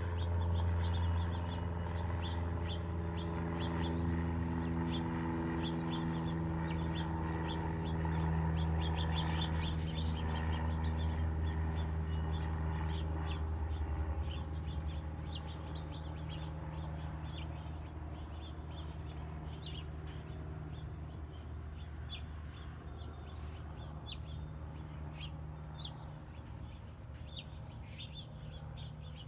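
Small birds chirping, many short high calls throughout, over a steady low hum that fades about halfway through.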